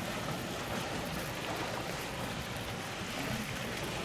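Steady wind and water noise, an even rushing with no distinct events.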